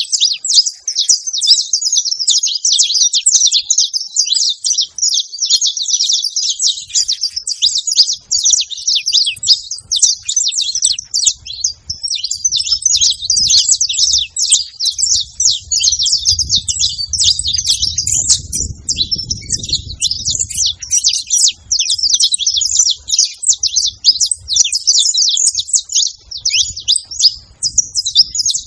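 Saffron finch singing: a long unbroken run of rapid, high chirping notes.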